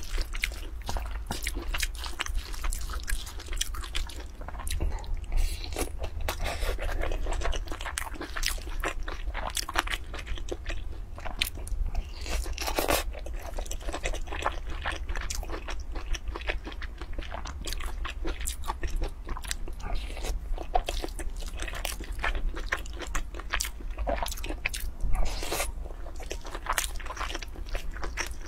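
Close-miked chewing and crunching of mouthfuls of spicy rice with shredded vegetables, a quick run of wet crunches and bites. A wooden spoon scrapes now and then in a metal pot, over a steady low hum.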